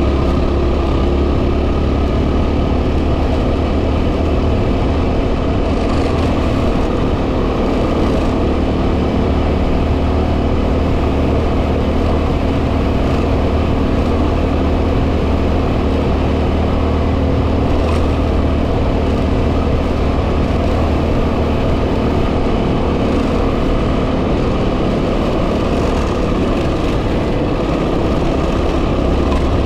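Single-cylinder engine of a 2010 Yamaha WR250R dirt bike running at a steady cruise, under heavy wind noise on the helmet or bike microphone.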